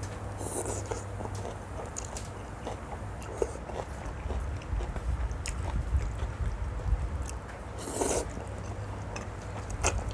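A person eating pork noodle soup with pork cracklings: chewing with small crunches and clicks, plus two short louder rushes of sound, one about half a second in and one about eight seconds in.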